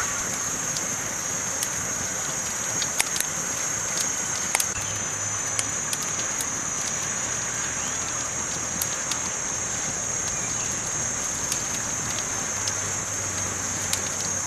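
Campfire burning: wood crackling with irregular sharp pops over a steady hiss.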